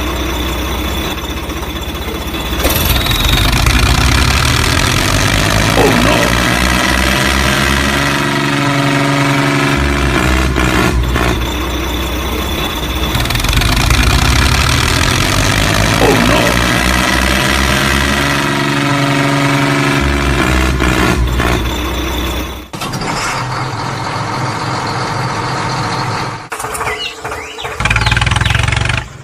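Tractor engine running and revving up and down. The same stretch repeats about every ten seconds, as a looped sound effect would. The sound changes and becomes choppier near the end.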